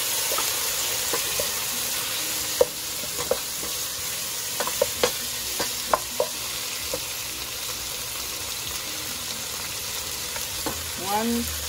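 Diced pork and shrimp with onion and garlic sizzling in a nonstick pot, freshly splashed with cooking wine, while a wooden spatula stirs them. Several sharp knocks of the spatula against the pot come in the middle.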